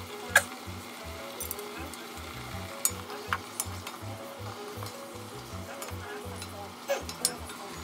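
Napa cabbage sizzling as it stir-fries in a cast-iron pot, stirred with a wooden spatula. Sharp utensil clicks against the pot stand out over the steady sizzle, the loudest about half a second in and a few more around three and seven seconds in.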